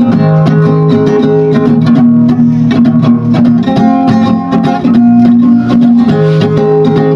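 Guitar strumming chords in an instrumental passage between sung verses of a rock-song cover, with a steady rhythm of strums.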